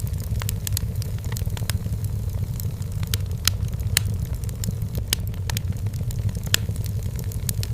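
Wood fire burning in a fireplace: a steady low rumble of the flames with frequent, irregular sharp crackles from the burning logs.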